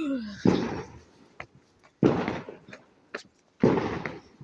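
Fireworks going off: three loud bangs about a second and a half apart, each fading out with a trailing echo, and a few fainter cracks between them.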